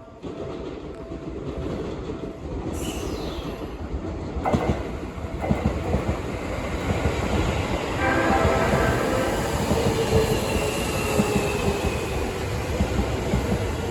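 Seibu 40000 series train pulling away, its Toshiba IGBT-VVVF inverter and permanent-magnet synchronous traction motors whining in several tones that climb slowly in pitch from about eight seconds in as it accelerates. Earlier a short high tone slides downward and there is a sharp click, over growing running noise.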